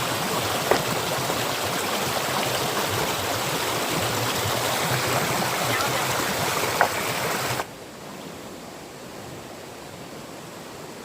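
Fast-flowing stream water rushing steadily, with two short sharp knocks, one near the start and one about seven seconds in. About two-thirds of the way through, the rush drops suddenly to a much quieter level.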